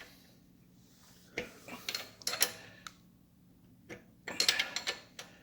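A wrench tightening motorcycle exhaust nuts: two bursts of metallic clicking and clinking, the first about a second and a half in, the second near the end.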